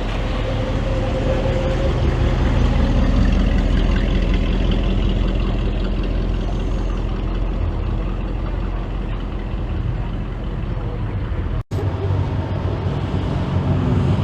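Classic car engines running with a steady low rumble, amid outdoor background noise. The sound drops out for an instant about three quarters of the way through and then resumes.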